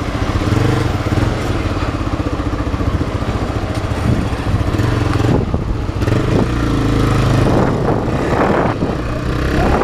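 Single-cylinder engine of a Honda Twister 250 motorcycle running while riding through town, its pitch shifting about halfway through.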